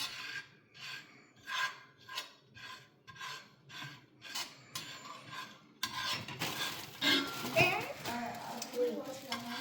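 A metal spoon scraping repeatedly around a frying pan, spreading cooking oil, about two strokes a second. About six seconds in it gives way to a denser, busier scraping and clatter.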